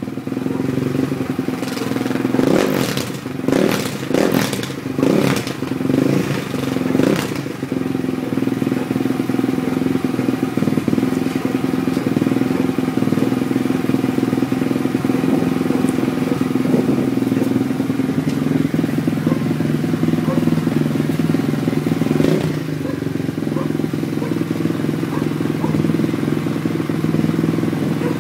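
KTM 450 SMR's single-cylinder four-stroke engine through an Akrapovic exhaust, blipped sharply about six times between two and seven seconds in. It then runs at a steady, even note, which settles slightly lower about 22 seconds in.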